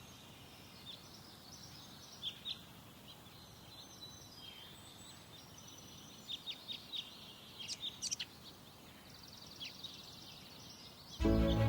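Several songbirds chirping and singing: short high calls and a rapid trill over a faint steady outdoor background. Music comes in loudly and suddenly just before the end.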